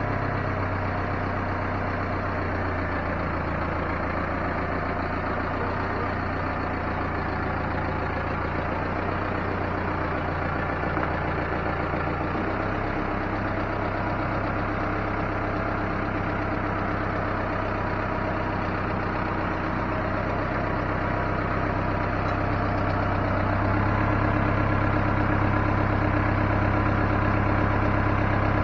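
A vehicle engine running steadily, a low drone that shifts slightly about twelve seconds in and grows a little louder near the end.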